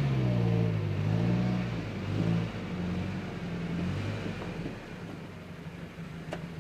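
Pickup truck engine running under load: the pitch rises and falls with the throttle, then eases off as the sound fades. A sharp click comes near the end.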